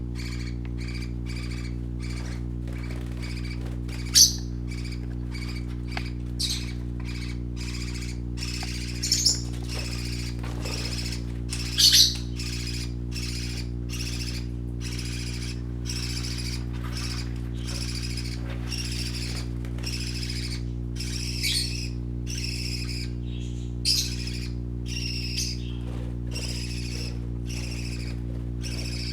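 Baby parakeets chirping in a constant stream of short high peeps, with a few louder calls scattered through, over a steady low hum.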